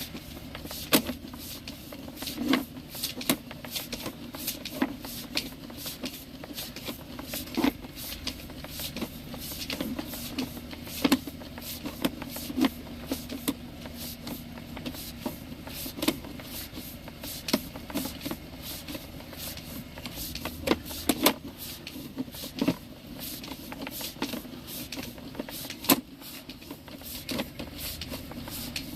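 Sewer inspection camera on its push cable being fed along the pipe: irregular sharp clicks and knocks, several a second at times, over a steady low hum.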